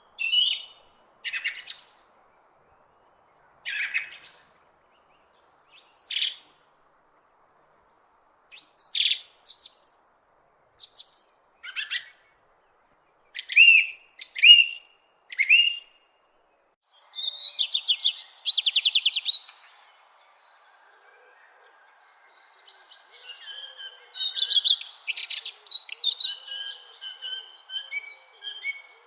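Songbirds calling: separate short chirps and whistled notes with pauses between them, a buzzy trill midway, then several birds calling over one another near the end.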